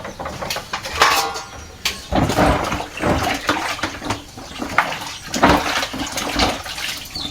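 Water splashing in irregular bursts, with dishes clinking.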